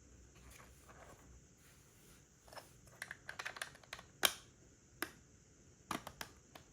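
Plastic Lego pieces clicking and rattling as they are handled during a build: a quick run of small clicks about three seconds in, then a few sharper single clicks, the loudest about four seconds in.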